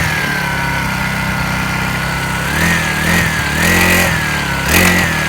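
Mini dirt bike's small gasoline engine running at idle just after its first start, blipped up in revs briefly three times in the second half.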